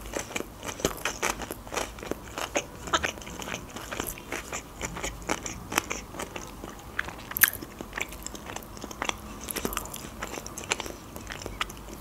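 Close-miked chewing of sushi rolls: wet mouth sounds with many short clicks and smacks, and one sharper click about seven and a half seconds in.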